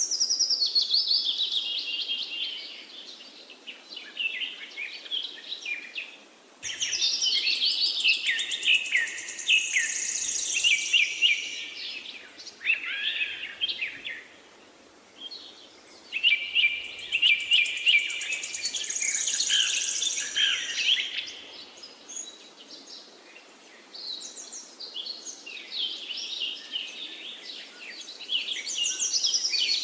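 Several birds chirping and singing together in overlapping bouts of quick twitters and high trills, with short lulls about 6, 15 and 22 seconds in.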